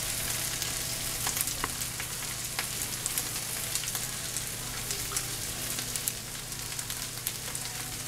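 Stir-fry vegetables sizzling in a hot pan: a steady frying hiss with many small scattered pops and crackles.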